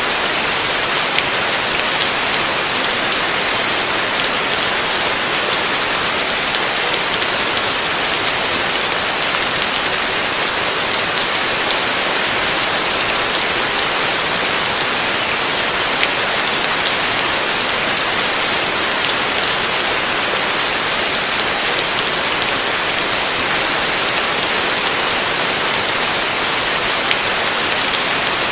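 Heavy rain falling on a roof: a steady, dense hiss of drops with no let-up.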